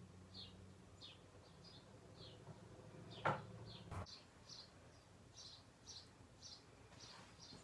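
Faint bird chirps, short high notes repeating about twice a second, with a single sharp tap about three seconds in.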